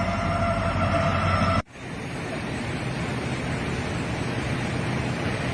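A train coming up: a steady horn-like tone that cuts off abruptly about a second and a half in, then a steady rushing noise.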